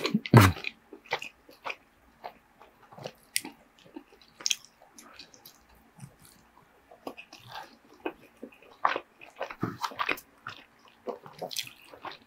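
Close-miked chewing of mouthfuls of shredded kalua pork, with irregular wet mouth smacks and clicks; the loudest smack comes about half a second in.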